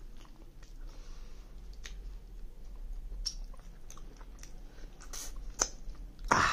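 A person chewing close to the microphone, with wet mouth sounds and scattered sharp clicks, and a louder smack near the end.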